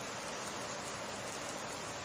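Steady summer rain falling, an even, unbroken hiss.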